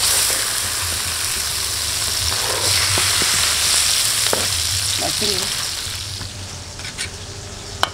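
Red chillies, tomatoes, shallots and garlic sizzling in hot oil in a wok while being stirred with a metal slotted spatula; they are being fried for tomato sambal. The sizzle fades after about six seconds, and a single sharp knock comes near the end.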